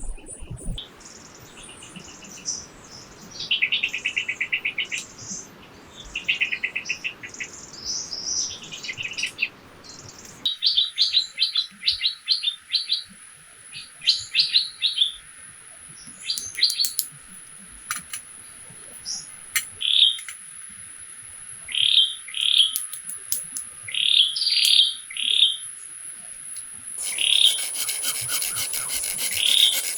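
Wild birds calling in forest: repeated short chirps and quick trills. A thin steady high-pitched buzz, such as an insect's, joins about a third of the way in.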